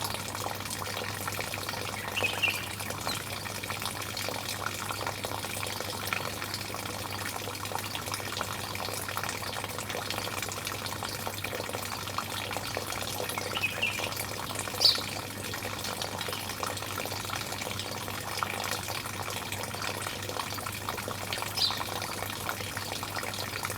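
Running water splashing steadily, with a few short, high bird chirps, the loudest about fifteen seconds in, over a low steady hum.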